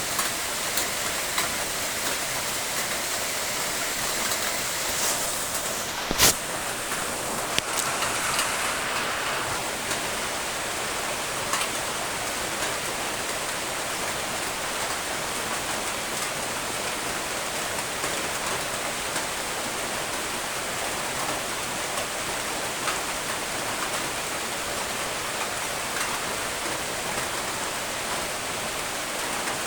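Steady rain falling, an even hiss with scattered drops ticking. One sharp tap about six seconds in is the loudest moment.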